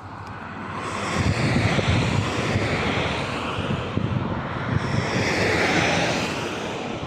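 Diesel locomotive hauling a passenger train past, its engine and wheels rumbling with a throbbing low end. The sound builds about a second in, holds, and eases off near the end.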